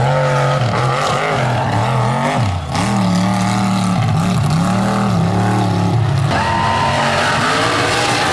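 Mud truck's engine revving hard, its pitch rising and falling again and again as the throttle is worked.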